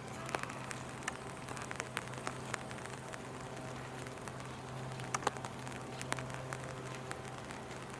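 Rain falling, with scattered sharp ticks of drops landing close by over a steady low hum.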